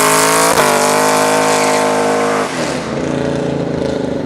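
Supercharged V8 of a Camaro ZL1 accelerating hard, its pitch climbing with a quick gear change about half a second in, then easing off about two and a half seconds in and fading.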